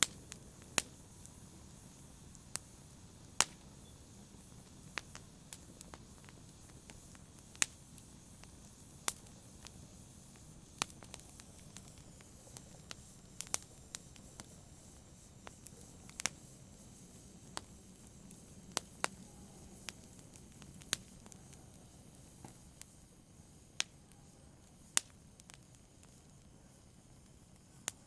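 Wood fire crackling: sharp, irregular pops and snaps about once a second over a faint steady low rustle of the burning.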